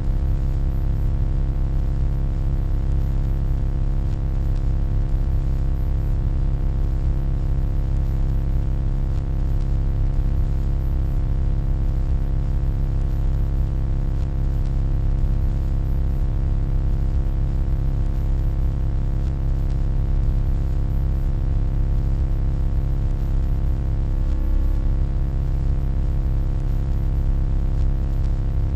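Steady electronic hum: a deep, constant drone with a stack of unchanging tones above it, strongest in the bass. There is a brief faint wobble in the middle tones near the end.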